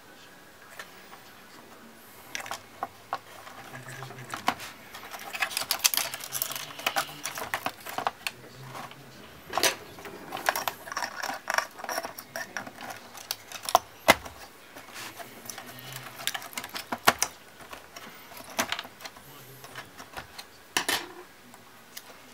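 Plastic and metal clicks, taps and rattles of laptop parts and small tools being handled, with several short whirs of a small motor.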